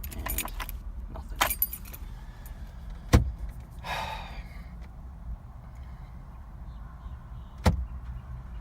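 Car keys on a keyring jangling against the ignition and steering column while the key is worked, with two sharp knocks a few seconds apart from the cabin, over a low steady rumble. The engine does not crank or start: a no-start with the transmission apparently stuck in gear.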